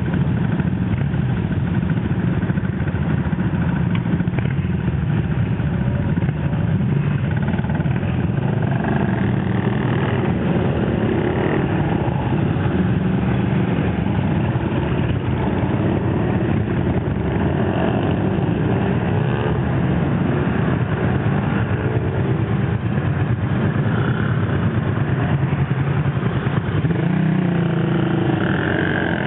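Old motorcycle engine running steadily, a continuous low rumble whose pitch shifts now and then.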